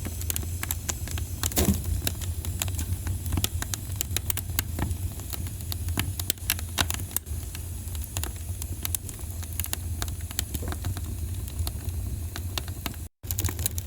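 Wood fire crackling in a fireplace: irregular sharp pops and snaps over a steady low rumble. The sound cuts out for a moment near the end.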